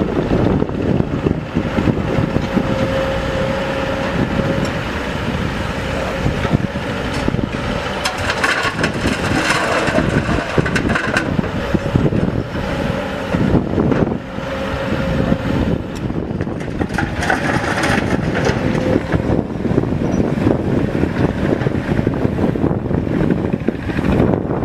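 Heavy diesel machinery running, with a steady whine over the engine noise and two louder surges, about nine and seventeen seconds in.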